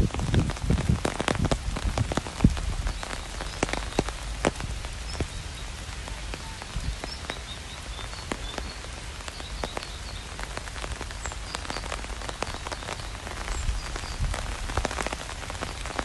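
Rain falling, with drops pattering irregularly on a surface over a steady hiss and a low rumble underneath. The drops come denser in the first couple of seconds and again near the end.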